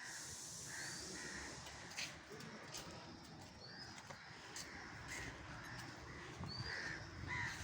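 Crows cawing several times, faintly, with a few short, higher rising chirps from smaller birds between the caws.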